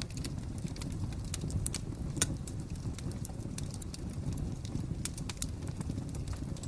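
Fire crackling: a steady low rumble with irregular sharp pops and snaps, the loudest a little over two seconds in.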